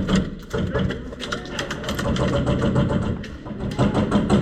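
Airsoft guns firing in rapid bursts: a fast, irregular rattle of shots.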